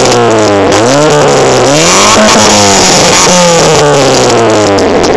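Daewoo Lanos 1.6 16-valve four-cylinder engine running through a straight-through exhaust, with the revs rising and falling. The revs drop, climb from about a second in, drop again, then rise once more and fall away near the end.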